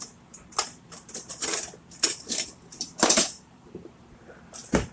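Kitchen clatter while cooking: a string of short, sharp rattles and clicks, about half a dozen, with a low knock near the end.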